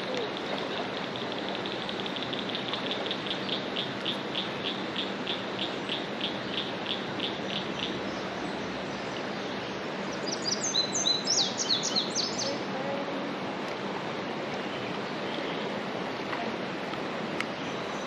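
Birds singing over a steady wash of river water: a long run of evenly spaced short high notes, about three a second, for the first several seconds, then a brief louder burst of quick falling notes about ten seconds in.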